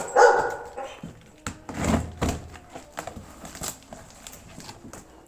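A dog barks once near the start, followed by scattered knocks and clicks, with a heavier low thudding about two seconds in.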